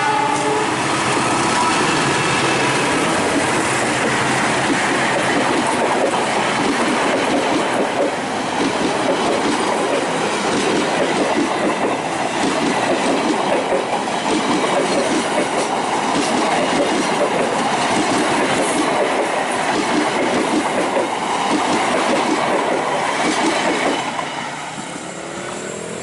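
Train passing close by, its carriage wheels clattering rapidly over the rail joints. The noise drops off sharply about 24 seconds in as the last carriage goes by.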